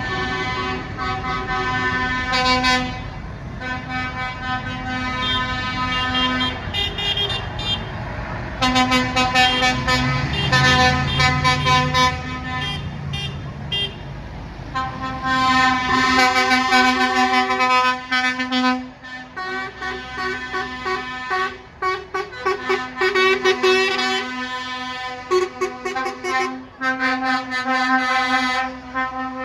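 Lorry horns sounding in long blasts with short breaks, several tones at once, over the engine of a passing lorry.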